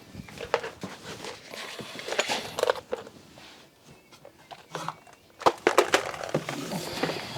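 Handling noises from shop work: scattered clicks, taps and short rustles, with a quick run of sharp clicks or knocks about five and a half seconds in.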